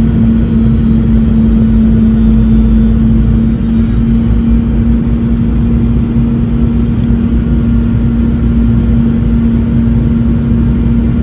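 Boeing 717 cabin noise: the steady drone of its rear-mounted Rolls-Royce BR715 turbofans and airflow, heard from inside the cabin. It is a strong constant hum over a low rumble, with a faint high whine above.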